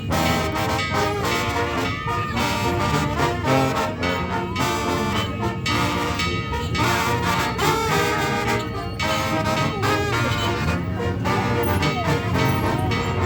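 Brass band music: trumpets and trombones playing a melody over a steady beat.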